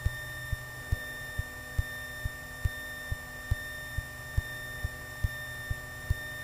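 Piper Archer cockpit sound heard through the intercom feed: a steady low engine drone on the ground, overlaid by a thin steady electrical whine and short, evenly spaced low thumps a little over twice a second.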